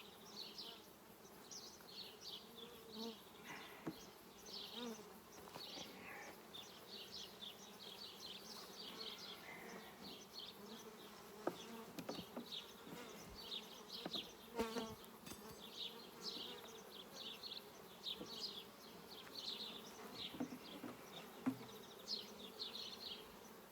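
Honeybees buzzing around an opened hive as its frames are inspected, a steady hum, with many short high chirps throughout and a few faint clicks.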